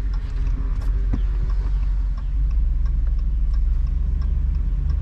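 Vehicle engine and road rumble heard from inside the cab while driving, with a turn-signal indicator ticking about twice a second.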